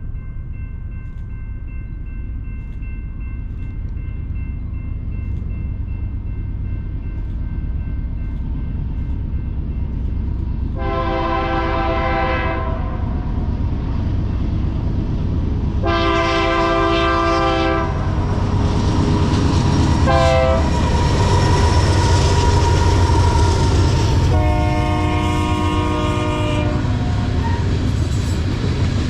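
Diesel freight locomotives of a grain train approaching and passing, their engine rumble building steadily. The air horn sounds long, long, short, long, the standard grade-crossing signal, and the rails clatter as the cars follow.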